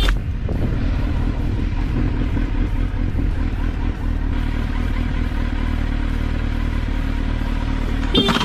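A motorcycle engine running at a steady speed with road and wind noise, its hum even throughout.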